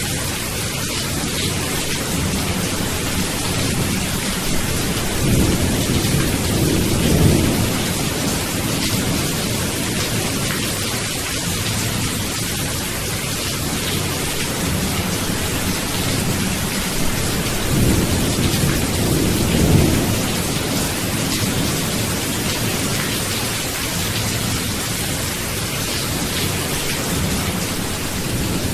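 Steady rain hissing, with low rolls of thunder rumbling up and fading away again, loudest about a third of the way in and again about two-thirds of the way through.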